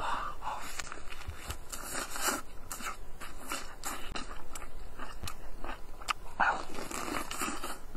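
A person biting and chewing big pieces of spicy fried beef steak, a run of irregular short clicks and crunches of mouth and meat.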